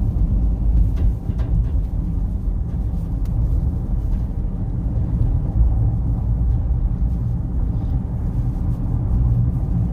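Steady low rumble of a car driving along a road, engine and tyre noise with a few faint clicks.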